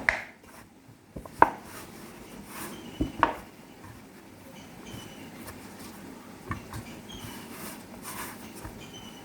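Bread dough of wheat and maida flour being kneaded by hand in a bowl: soft working sounds with a few sharp knocks against the bowl, two of them close together about three seconds in.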